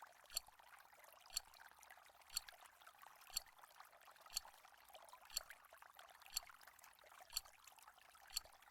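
Timer ticking once a second, nine faint sharp ticks counting down, over a faint hiss.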